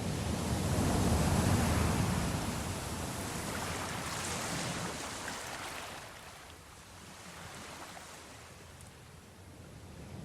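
Sea waves washing in a steady rush. One swell builds and peaks in the first couple of seconds, dies away to a quieter lull after about six seconds, and begins to rise again near the end.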